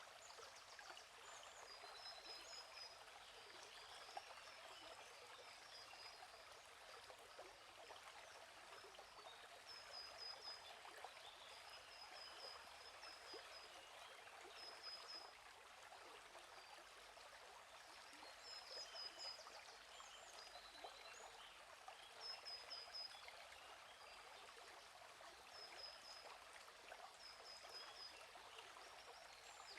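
A gently flowing stream trickling steadily, with small birds chirping in short quick runs of high notes every few seconds.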